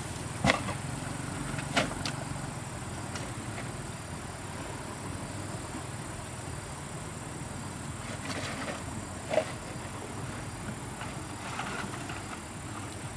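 Three sharp knocks or clicks, about half a second in, near two seconds and about nine and a half seconds in, over a steady background hum, with a few softer scrapes between them.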